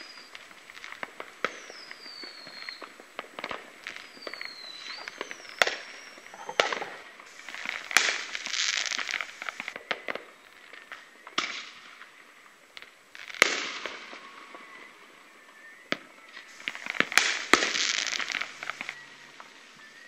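Aerial fireworks going off: sharp bangs of bursting shells every second or two, with long crackling spells after the bursts about a third of the way in and near the end. A few gliding whistles sound in the first few seconds.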